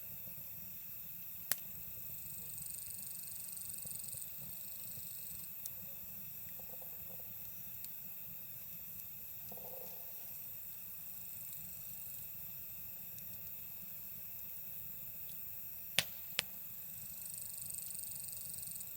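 Wood fire crackling quietly, with a few sharp pops: one about a second and a half in, and two in quick succession near the end. Night insects such as crickets chirr steadily behind it, swelling twice.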